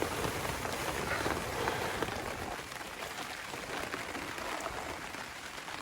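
Steady outdoor hiss with no distinct events.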